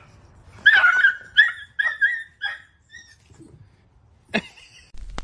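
A dog yipping and whimpering: a run of about six short, high yips, the first the longest and loudest, the rest fading over about two seconds. A single short, sharp sound follows near the end.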